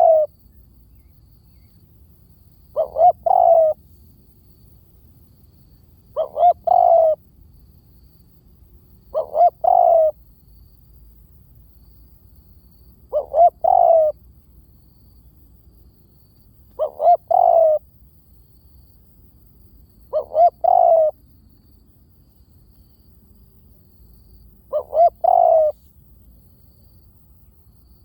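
Spotted dove cooing: a phrase of two quick short notes and a longer coo, repeated about every three and a half seconds, seven times.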